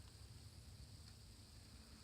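Near silence: faint steady hiss and hum of room tone.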